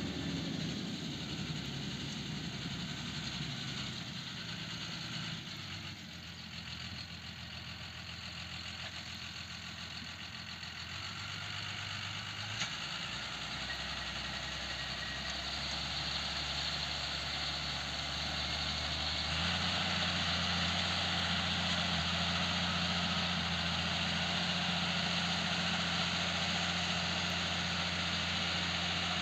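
Claas Arion 620 tractor's diesel engine running steadily while ploughing. It fades somewhat, then grows louder, with a clear step up in level about two-thirds of the way through.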